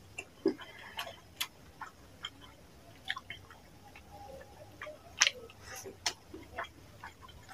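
Close-up mouth sounds of someone eating fish curry and rice by hand: irregular wet chewing and lip-smacking clicks, the sharpest a little past five seconds in.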